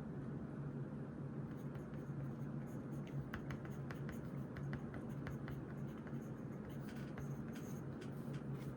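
Pen writing on paper: a run of short scratchy strokes that starts about a second and a half in, over a steady low hum.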